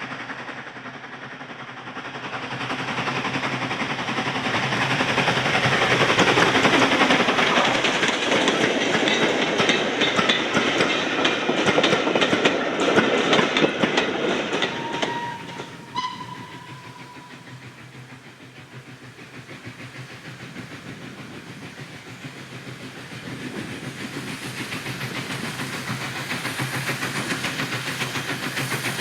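A train passing, its wheels clattering rapidly over the rail joints, building up and then dying away about halfway through; a short high tone sounds as it goes. A quieter, steady rhythmic running sound rises again near the end.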